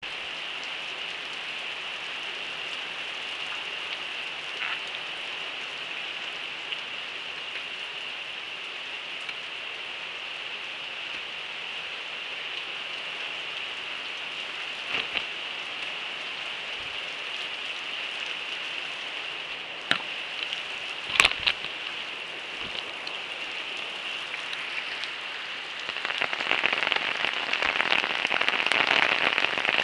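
Heavy rain pouring down steadily, with a few sharp knocks of drops or debris about two-thirds of the way through. The downpour gets louder about 26 seconds in.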